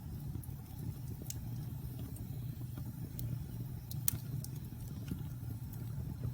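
Wood fire burning in a fireplace: a steady low rumble of flames with scattered sharp crackles and pops from the burning logs, the loudest pop about four seconds in.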